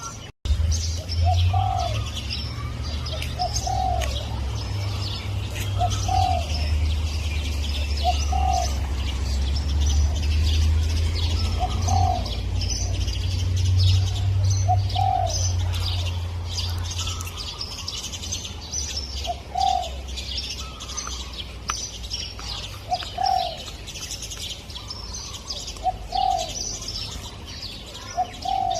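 Spotted dove cooing in short, low notes about every two seconds over a steady chatter of small birds chirping. A low rumble underneath fades out about two-thirds of the way through.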